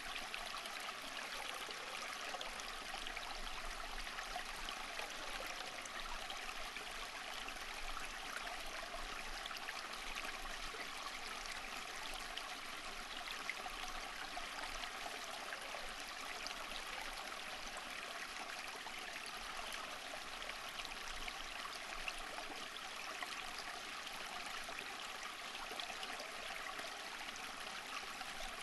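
Water flowing steadily over rocks, like a small stream, a continuous even rush with a fine crackle of splashing.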